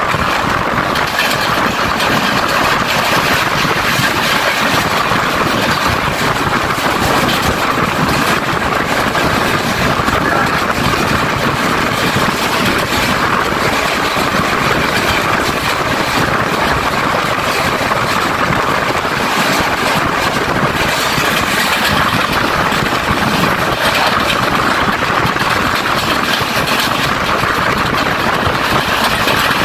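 Passenger train running at speed, heard from an open carriage window: a steady, loud rush of wheel and track noise that stays even throughout.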